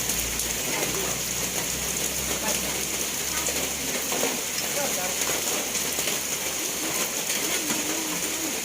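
Steady rain falling, an even hiss with many small drops tapping.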